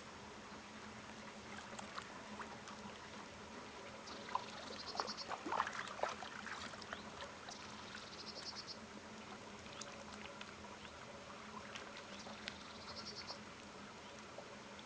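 A small songbird repeats a short, high, rapid trill three times, about four seconds apart. Scattered light clicks and knocks cluster around the fifth to sixth second over a faint steady hum.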